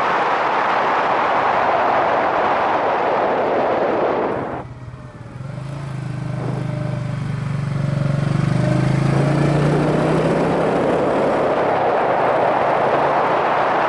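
Wind rushing over a helmet-mounted microphone on a moving Yamaha SRX400 motorcycle, mostly hiding its single-cylinder engine. About four and a half seconds in, the rush drops away suddenly and the engine's low note comes through, rising gently as it pulls, before the wind builds back up over it.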